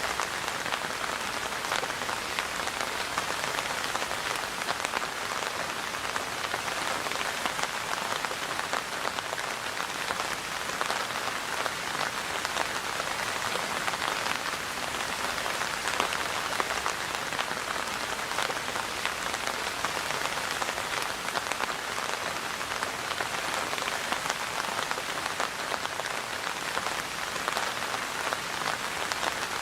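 Steady rain falling, a dense patter of many small drops on a surface.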